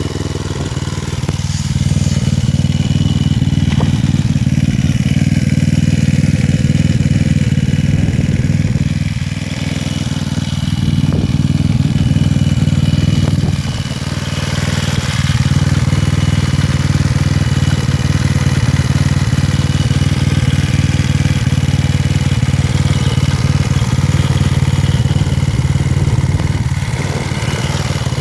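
Honda Ruckus scooter's 232cc Taida big-bore GY6 single-cylinder four-stroke engine running steadily through a Yoshimura exhaust. Its level dips briefly a few times, most clearly about 14 seconds in.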